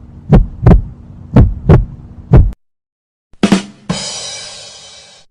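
Heartbeat sound effect: paired lub-dub thumps about once a second over a steady low hum, stopping about two and a half seconds in. After a short silence come a couple of quick clicks, then a sudden bright crash that fades out slowly, like a cymbal.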